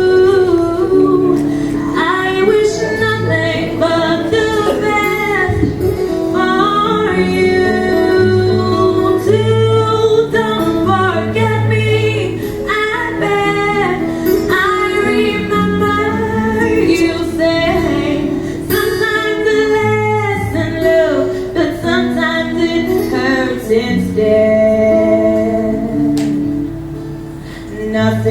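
A woman singing a slow melody over sustained instrumental accompaniment, dropping briefly in level near the end.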